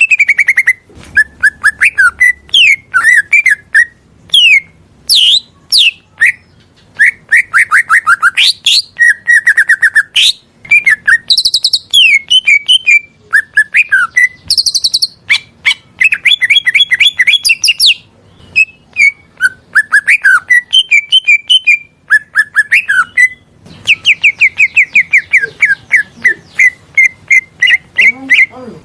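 Greater green leafbird (cucak ijo) singing loudly: a rapid, varied stream of chirps, whistled slurs and trills, in phrases broken by short pauses.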